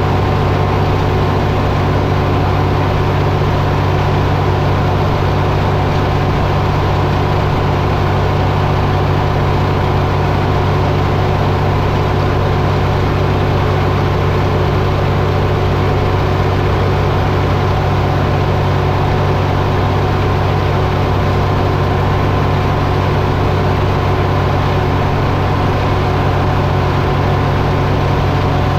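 Diesel engine running steadily at a constant speed, with no change in pitch or load.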